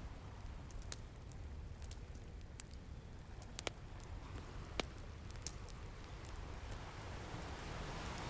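Wood fire crackling, with scattered sharp pops, over the low rumble of ocean surf; a wave swells up near the end.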